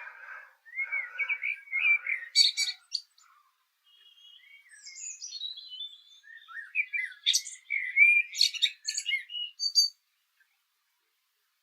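A songbird singing: two long phrases of quick, varied notes and trills, the first starting about a second in and the second running from about four seconds to near the end.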